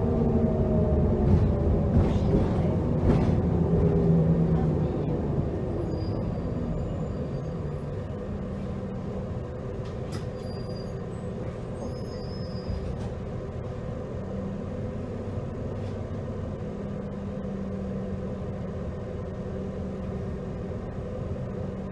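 Heuliez GX327 GNV natural-gas city bus: its engine and drivetrain wind down in pitch as the bus slows over the first few seconds, with short hisses typical of its air brakes. It then runs on steadily and more quietly.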